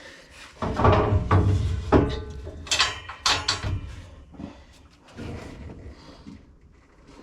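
Metal clanking and scraping from hand work on machinery, with a run of sharp knocks in the first few seconds that then dies down.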